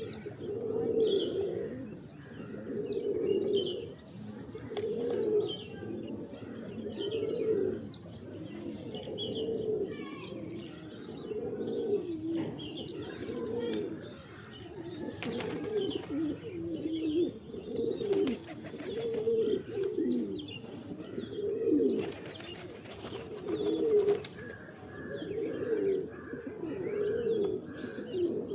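Several pigeons cooing, their low coos repeating and overlapping one another, with some higher chirps mixed in.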